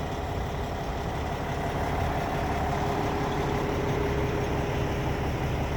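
Cummins ISX 550 diesel engine of a Western Star 4900SA truck tractor idling with a steady low rumble.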